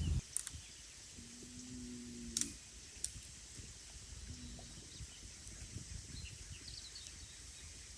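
Quiet outdoor ambience with a low rumble, a few sharp cracks in the first few seconds, and a faint steady low drone heard twice.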